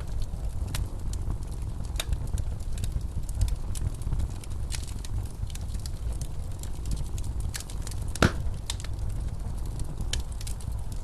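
Wood fire crackling in a fireplace: scattered sharp pops and snaps, one louder snap about eight seconds in, over a steady low rumble of blizzard wind.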